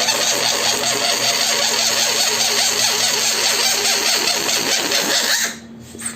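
Air rushing out through a balloon's stretched neck: a loud hissing rasp with a fast flutter that cuts off abruptly near the end, followed by faint rubbing on the rubber.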